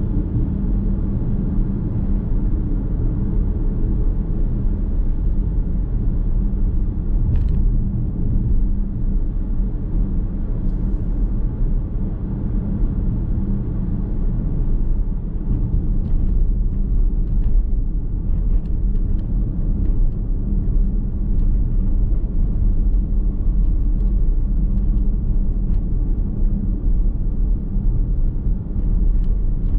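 Car driving at a steady pace, heard from inside the cabin: a continuous low rumble of tyres on the road and the running engine, with a few faint clicks.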